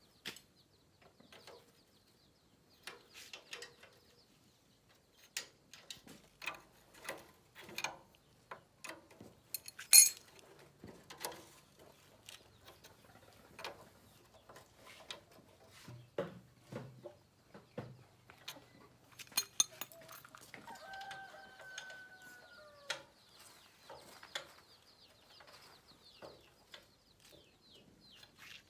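Irregular clinks and knocks of metal tools and parts being handled during repair work, with one sharp, much louder knock about ten seconds in. A bird calls briefly with a falling pitch a little past the middle.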